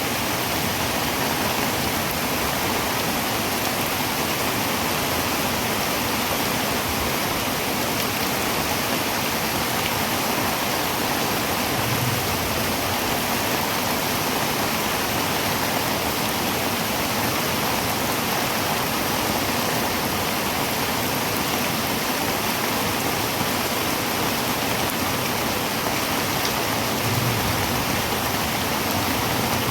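Heavy rain drumming on a tin roof, a dense, steady hiss that does not let up.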